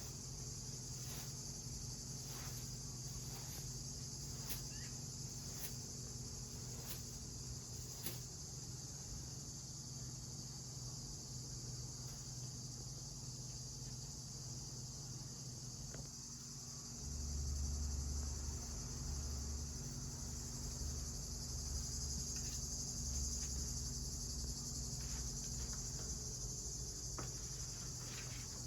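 Crickets chirping in a steady, continuous high-pitched chorus. Faint ticks come about once a second at first, and a low rumble sets in a little past halfway.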